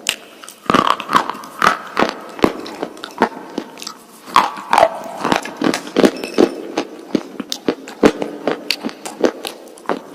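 Close-miked biting and crunching of a hard, brittle mineral snack, with sharp irregular cracks about two to three times a second and short gritty squeaks between them as it is chewed.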